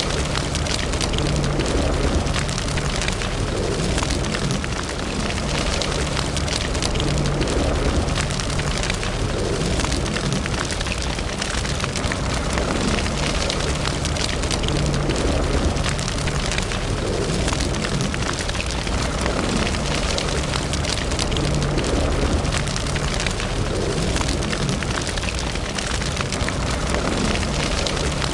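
Wood fire burning in a fireplace: a steady low roar of flames with constant small crackles and pops.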